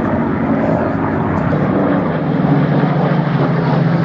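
Propeller aircraft engine running in flight, a steady drone that drops in pitch about two seconds in and then holds.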